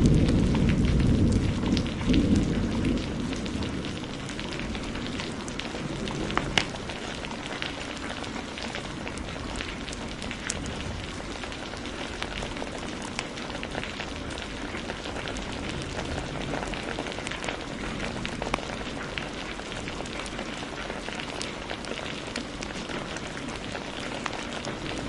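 Steady heavy rain hissing, with sharp pops and snaps of a crackling wood fire scattered through it, the loudest about six and a half seconds in. A low thunder rumble dies away over the first few seconds.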